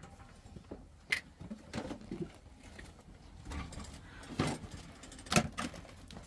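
A few irregular knocks and clatters, two of them sharp and loud, over a low steady rumble.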